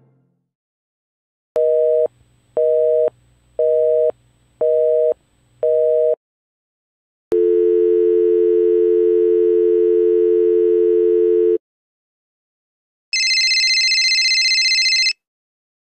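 Telephone line tone sound effects. First a busy signal of five short, evenly spaced beeps, then a steady dial tone for about four seconds, then a high-pitched tone for about two seconds.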